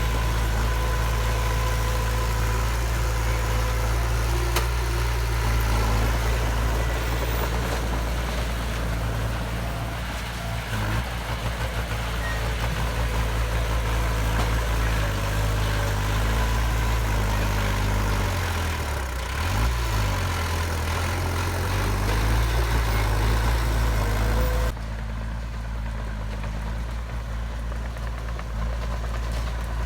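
Heavy diesel engine of earthmoving machinery running steadily, its pitch dipping and recovering about two-thirds of the way through. Near the end the higher hiss drops away abruptly while the engine runs on.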